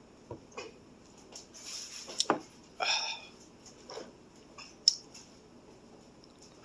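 Close-up eating sounds of spicy noodles: wet chewing and mouth noises, with a few sharp clicks scattered through.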